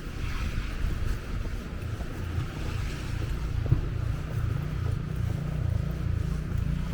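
Snow blower's small engine running steadily, with wind rumbling on the microphone.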